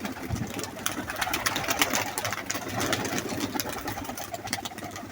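Domestic pigeons' wings flapping and clattering in a dense, rapid flutter as they are released and take off.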